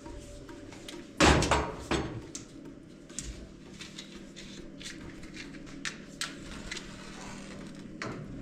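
A loud clatter of several knocks about a second in, then scattered lighter knocks and clicks over a low steady hum.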